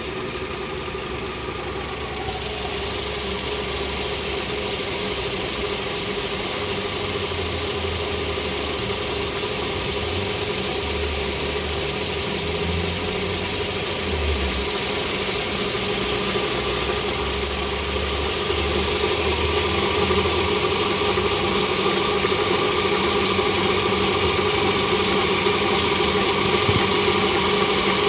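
Volkswagen CFNA 1.6 four-cylinder petrol engine running steadily at idle, with an extra noise in its running that the owner finds abnormal. It gets slightly louder about two-thirds of the way through.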